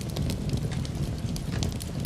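Wood fire crackling in a fireplace, with scattered sharp pops over a steady low rumble, mixed with rain.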